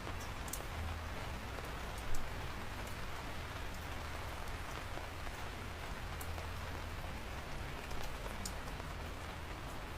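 Steady rain falling on surfaces, a constant hiss with a low rumble under it. Scattered sharp ticks of individual drops land close by, one louder hit about two seconds in.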